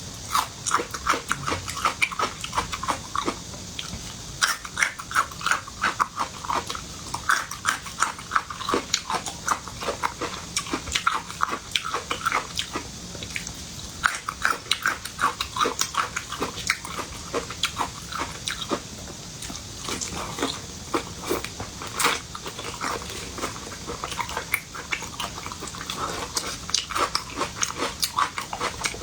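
Close-up mouth sounds of a person eating seafood: wet smacking, biting and chewing in a quick, irregular patter of clicks.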